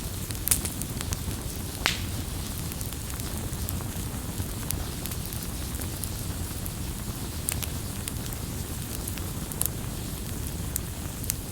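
Campfire burning with a steady low rumble and scattered sharp pops and snaps of burning wood, the two loudest pops in the first two seconds.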